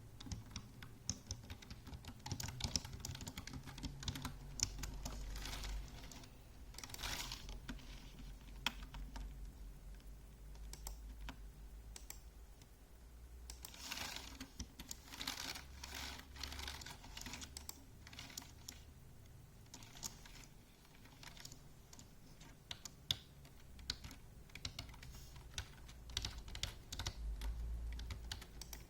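Typing on a computer keyboard: irregular runs of key clicks with brief pauses between bursts.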